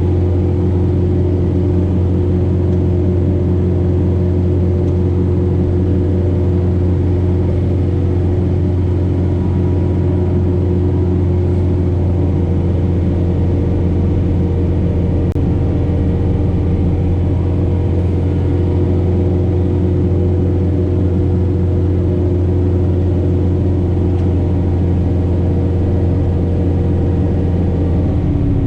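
John Deere 4066R compact tractor's diesel engine running steadily at working speed, driving the PTO-powered Frontier snowblower through heavy wet snow: a loud, even drone with a constant hum.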